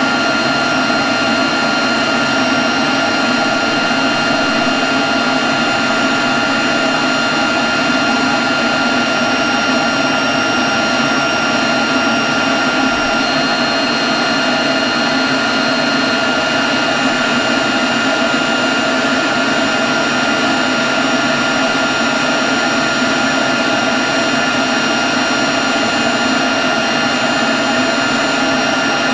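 Leaf blower running steadily at constant speed: a loud rush of air with a steady high whine over it.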